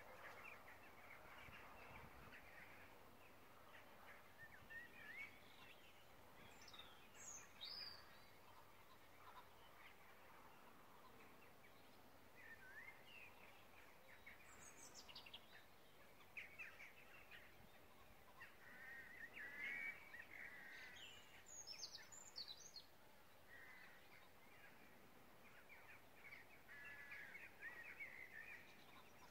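Faint bird calls in quiet open countryside: scattered chirps and short whistled notes, a few higher, brighter notes now and then, over a low outdoor hiss.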